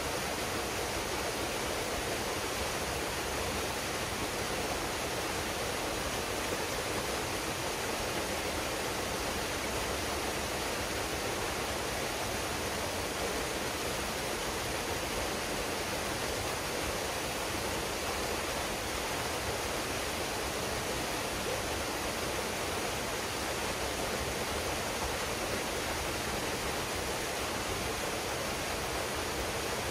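Waterfall pouring steadily into a pool, an even rush of falling water with no breaks.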